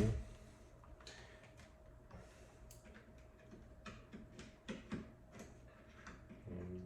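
Scattered light clicks and taps from hands working on a wall thermostat and its wiring, over a faint steady hum.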